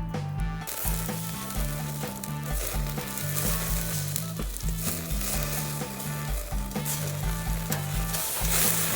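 Sizzling and crackling from the fire grill in use, starting about a second in, over background music with a steady repeating bass line.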